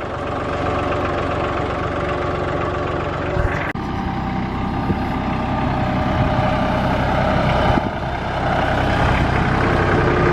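Tractor diesel engine running steadily while it pulls a grading blade. The engine note shifts abruptly about four seconds in, then carries on.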